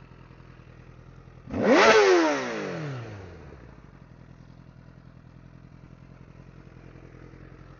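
Honda CBR1000RR inline-four sport-bike engine idling, with one sharp throttle blip about a second and a half in: the revs jump and then fall back to idle over a second or two.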